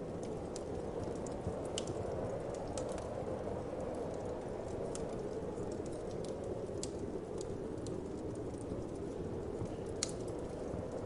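Wood fire crackling in a fireplace, irregular small pops and snaps with one louder pop near the end, over a steady low whoosh of wind.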